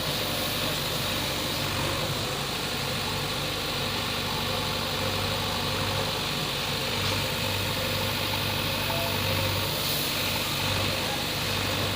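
Heavy diesel engine running steadily at an even speed, with a constant low hum.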